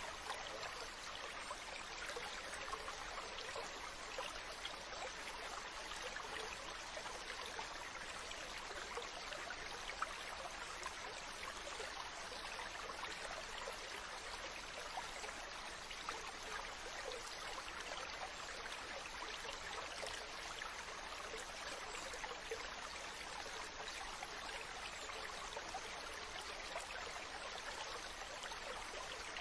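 Ocean water washing, a steady fizzing hiss with no distinct swells of breaking waves.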